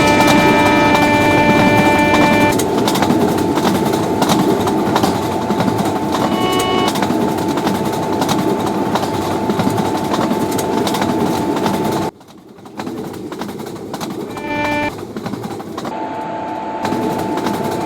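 A train passing at speed: its horn sounds at the start and stops after about two and a half seconds. The noisy rush and rattle of the passing cars follows, then drops away suddenly about twelve seconds in. The horn sounds again briefly near the end.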